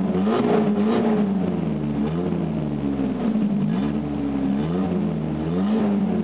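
1994 Chevy S10's 2.2-litre four-cylinder engine blipped up and down about five times, heard through an exhaust with the stock muffler, no tailpipe and no catalytic converter.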